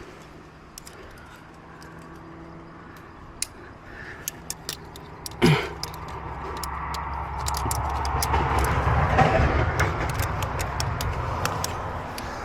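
Light metallic clicking and jangling of climbing gear, with a short, loud, falling sweep about halfway through. Then a motor vehicle passes, swelling over a few seconds and fading away.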